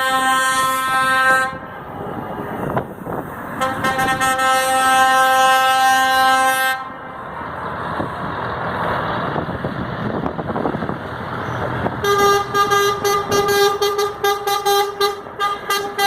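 Truck air horns blowing: one long blast that stops about a second and a half in, a second long blast from about four to seven seconds, then a stretch of engine and road noise, and from about twelve seconds a higher-pitched horn sounding in quick repeated toots.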